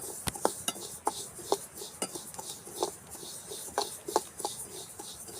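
A spatula stirring and scraping a mix of rice, sesame and gram as it dry-roasts in a pan, making irregular scraping strokes and sharp clicks about two a second.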